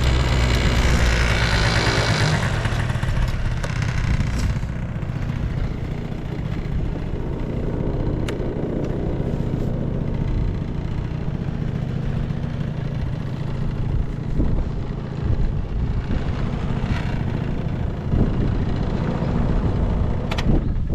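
Honda Live Dio AF35 scooter's 49cc two-stroke engine running, its revs falling back about two seconds in, then idling with a steady low rumble.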